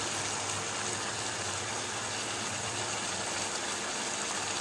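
Steady hiss of chicken masala curry frying and simmering in a nonstick pan over a gas burner.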